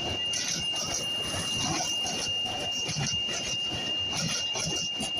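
A train running past on the railway, with irregular rattling noise and a steady high-pitched tone that holds throughout.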